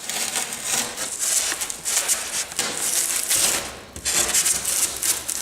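Polystyrene foam sheet, about 1 cm thick, rubbing and scraping as it is worked by hand, in a run of loud, scratchy strokes with short breaks between them.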